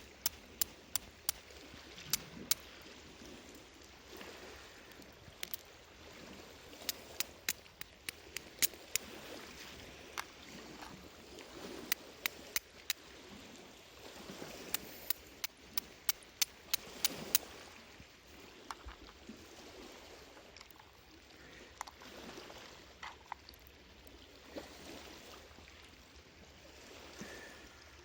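Wood campfire crackling, with many sharp irregular snaps and pops, thickest in the first half and sparser near the end, over a steady wash of sea waves rising and falling.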